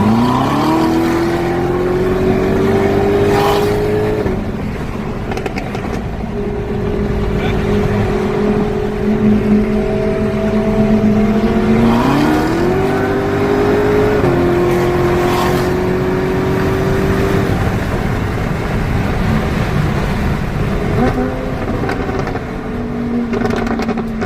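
Sports car engine running hard at freeway speed. The revs climb quickly right at the start and again about halfway through, and hold steady between. A few brief sharp exhaust crackles come through.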